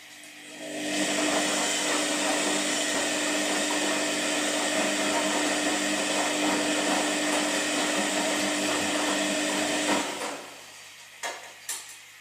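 Washing machine motor running with a steady hum and whir for about nine seconds, then winding down, followed by two short clicks.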